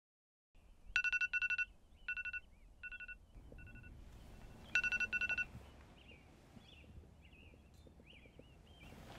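Smartphone alarm going off: repeated clusters of rapid, high electronic beeps for about four seconds, then it stops.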